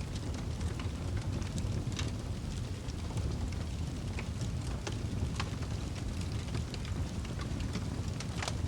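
Wood fire burning in a fireplace: a steady low roar of flames with scattered crackles and pops, and one louder pop near the end.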